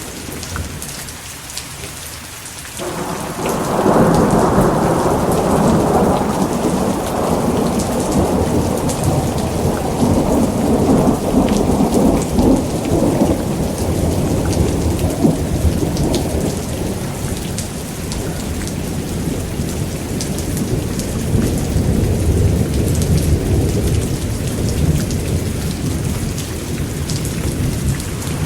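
Thunderstorm: steady heavy rain with a long roll of thunder that breaks in suddenly about three seconds in and rumbles on, slowly fading.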